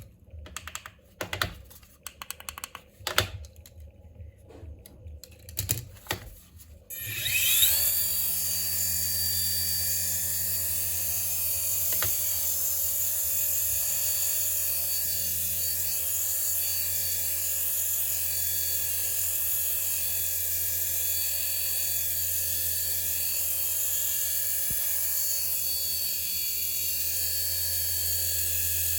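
A few clicks and taps of handling, then about seven seconds in a micro RC toy helicopter's electric rotor motor spins up with a rising whine and keeps running as a steady high-pitched whir.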